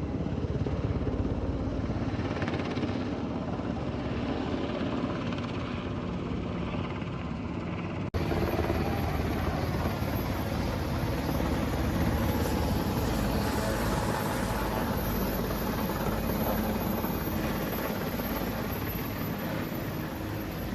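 A military helicopter flying nearby, its rotor chop and engine noise continuous and loud. There is a brief dropout about eight seconds in, after which the sound continues.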